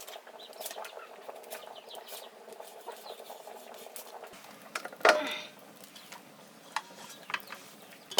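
Kitchen clatter: scattered light clicks and scrapes of metal pots and utensils, with one louder metal clatter about five seconds in.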